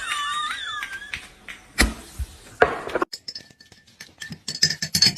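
A parrot's short wavering whistle, then a couple of sharp knocks. Near the end comes a quick run of light clinks and taps.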